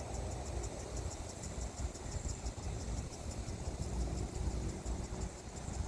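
Outdoor ambience: an uneven low rumble with insects chirping in a fast, steady pulse high above it.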